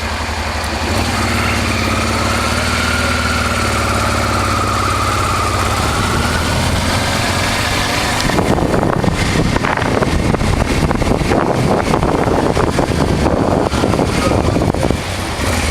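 1988 Honda Transalp's 600 cc V-twin engine running slowly through a U-turn, then opening up about eight seconds in into a louder, rougher rumble as the bike pulls away.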